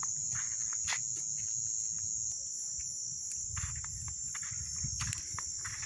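Crickets singing in a steady high-pitched drone, with scattered short clicks and a low rumble underneath.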